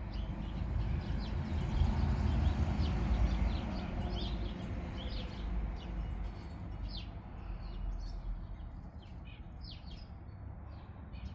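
Small birds chirping outdoors: many short, high chirps scattered through, over a low background rumble that fades somewhat after the first few seconds.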